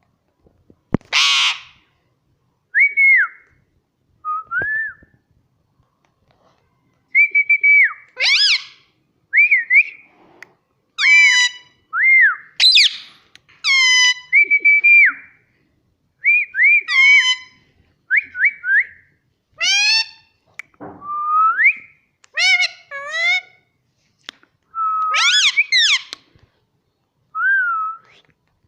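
Indian ringneck parakeet giving a string of short whistled chirps and calls, many gliding up or down in pitch, in bursts with brief pauses. There is one harsh squawk about a second in.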